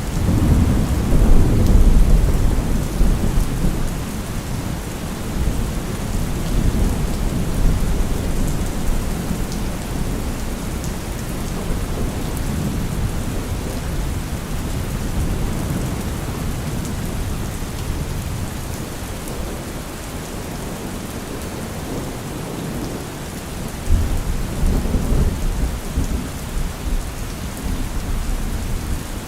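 Thunderstorm: steady heavy rain with rolling thunder, one long rumble at the start and another about three-quarters of the way through.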